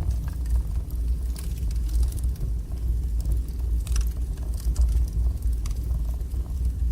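Wood fire burning in a fireplace: a steady low rumble from the flames with scattered sharp crackles and pops, a few close together around the middle.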